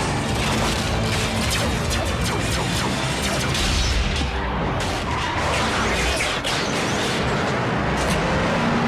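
Action-score music over a dense mix of crashes and impacts, loud and continuous throughout.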